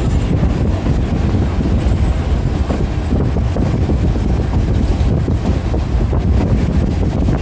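Steady low rumble of a moving passenger train, with wind buffeting the microphone.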